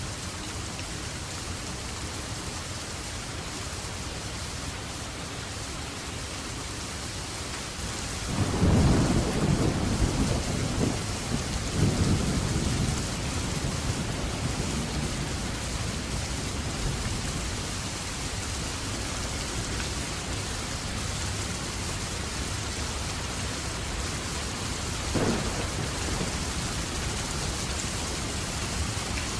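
Steady rain falling, with a low roll of thunder starting about eight seconds in and rumbling for around five seconds in two swells. A brief, sharper thump comes near the end.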